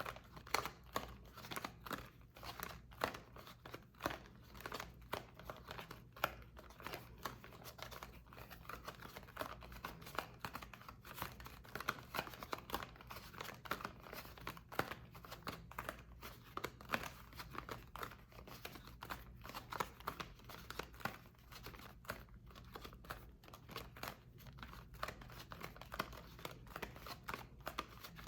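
Soap being worked by hand close to the microphone: a dense, steady run of small crisp crackles and scrapes, several a second.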